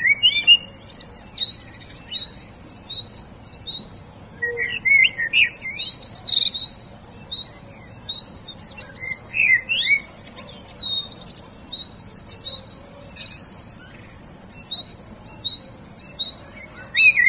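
Several birds chirping and singing: a short high note repeated every second or so, with bursts of quicker, higher trills and sweeping whistled calls.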